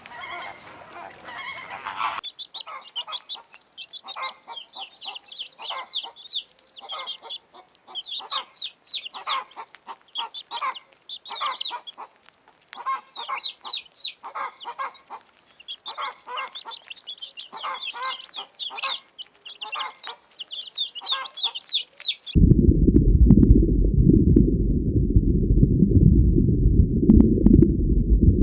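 Chickens clucking in many quick, short calls for about twenty seconds, after goose honking in the first two seconds. Near the end this cuts to a loud, steady low rumble.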